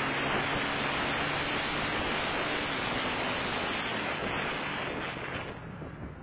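Steady rush of wind over the microphone of a moving motorcycle, with a faint engine hum underneath; it dies down about five and a half seconds in.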